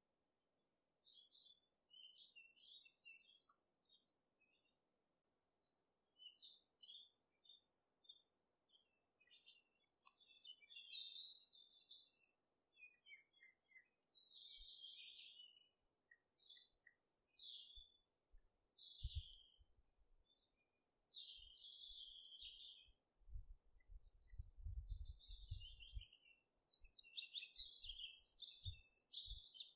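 Small birds chirping and twittering in quick, high runs with short pauses, the chirps starting about a second in. A few faint low thumps come in the second half.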